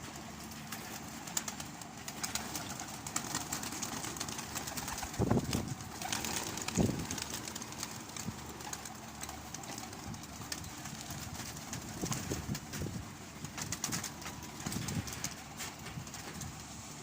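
Domestic pigeons cooing, several low coos spread through, over light clicking and rustling.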